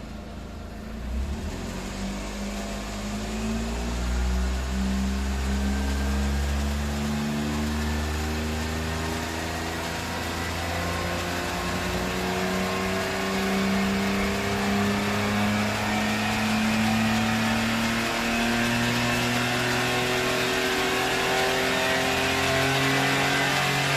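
Suzuki Wagon R's K6A turbocharged three-cylinder engine heard through a Suzuki Sport aftermarket muffler. It gets louder about a second in, then its pitch climbs slowly as the engine speeds up, with a shift in the low notes about seven seconds in.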